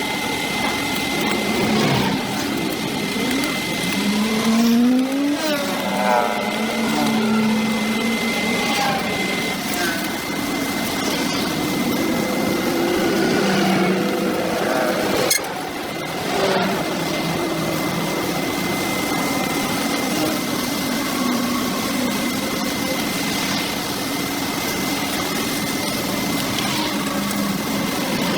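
A small engine running steadily with a constant high whine, its pitch sweeping up and back down about four to six seconds in.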